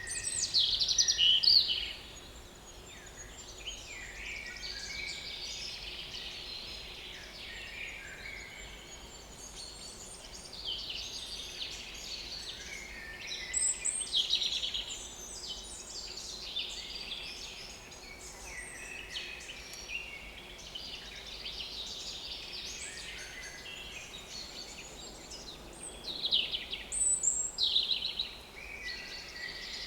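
Small woodland songbirds singing, one after another. The loudest song phrases come right at the start, about halfway through and again near the end.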